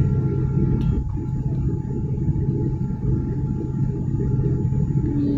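Steady drone of an airliner's jet engines heard from inside the passenger cabin, with a faint steady hum above it and a brief click about a second in.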